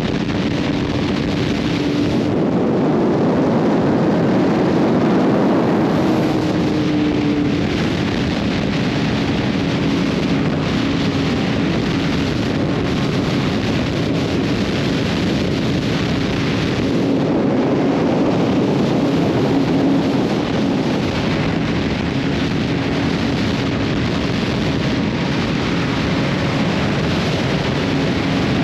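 Sport bike engine holding a steady highway cruise, its note almost unchanging, buried in heavy wind rush on a camera's built-in microphone.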